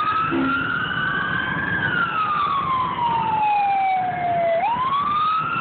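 Emergency vehicle siren in wail mode, heard from inside the vehicle: the pitch sweeps up quickly, falls slowly over about three seconds, and sweeps up again near the end. Under it is a steady low rumble of engine and road noise. The siren is loud.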